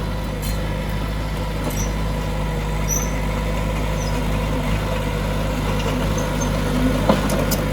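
Heavy diesel earthmoving machinery running steadily with a constant low engine hum, and a few light clicks near the end.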